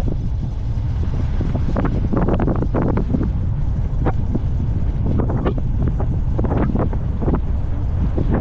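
Wind rushing over the microphone of a moving engineless gravity race car, a steady low rumble with irregular rattling knocks as it rolls downhill.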